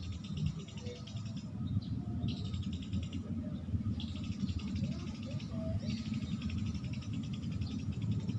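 Eurasian tree sparrows chattering in four runs of rapid high chirps, each a second or two long, over a steady low rumble.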